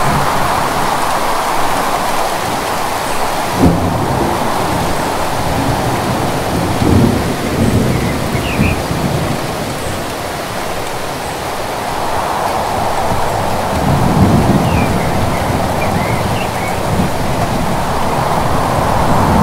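Steady rain with thunder rumbling under it: a sudden crack about four seconds in, and longer rolling rumbles around seven and fourteen seconds in.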